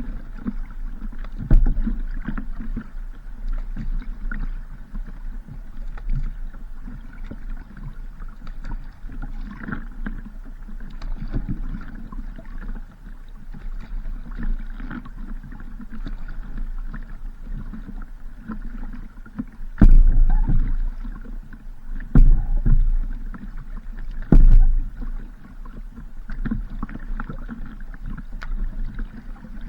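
Steady rumbling wind on the microphone over water noise, as from a small boat on the water, with a few heavy thumps, mostly bunched in the second half.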